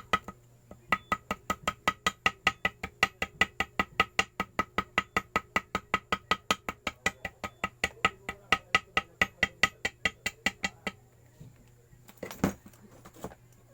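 Quick, even hammer taps, about four or five a second, each with a short metallic ring: gasket paper being tapped against the engine's sealing face to cut out a homemade gasket. The tapping stops about eleven seconds in and is followed by one louder knock.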